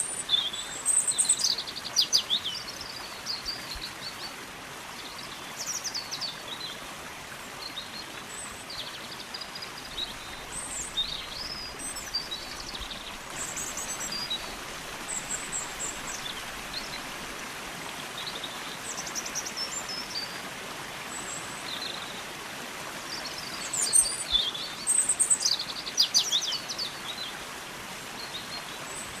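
Steady rush of flowing stream water with songbirds whistling and chirping over it, busiest at the start and again near the end.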